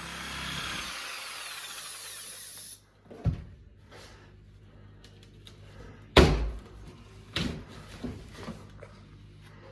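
A power tool runs for about three seconds and stops, followed by several sharp knocks on wood, the loudest about six seconds in.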